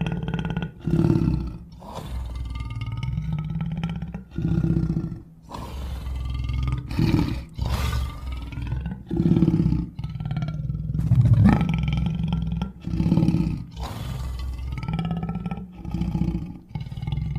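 Big-cat roars and growls made as creature sound effects for a winged jaguar, coming one after another in a series of separate calls with short breaks between them.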